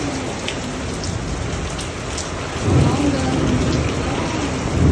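Rain falling steadily, with individual drops ticking close by. A low rumble swells about three seconds in and again near the end.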